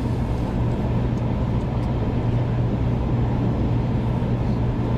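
Cabin noise inside a 500 series Shinkansen running along the line: a steady rumble with a constant low hum.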